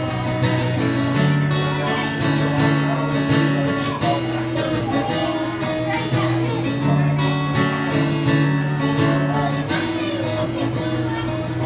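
Instrumental break in a soft ballad: an acoustic guitar strums chords, the bass notes changing every second or two.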